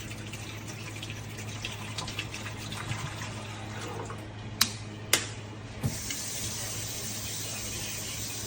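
Running water splashing, like a tank filling under a tap, over a steady low hum, with two sharp clicks about halfway through.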